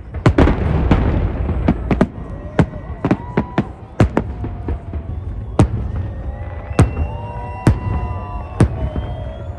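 Fireworks display: aerial shells bursting in a rapid, uneven series of sharp bangs, with a dense crackling burst from about half a second to two seconds in.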